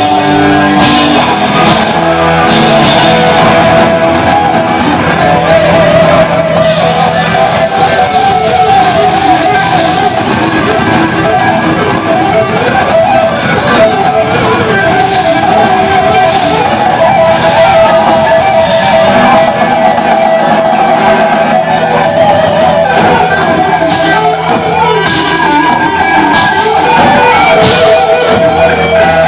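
Heavy metal band playing loudly and without a break: electric guitars over bass and drums.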